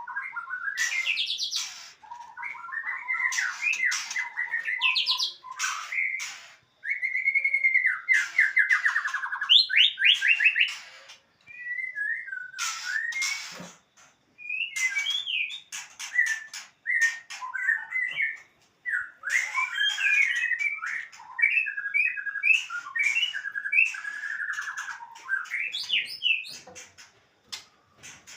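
Male songbird in full song: a long run of varied phrases, fast trills and slurred whistles with sharp chips between, broken by brief pauses.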